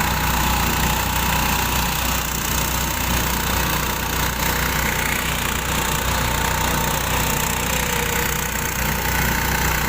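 Small boat's engine running steadily under way, a constant low hum with a steady hiss over it.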